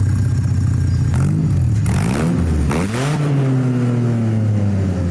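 Custom 1932 Ford coupe hot rod's gasoline engine idling, then revved up and down a couple of times about one to three seconds in. It then holds a slightly faster idle that slowly settles lower.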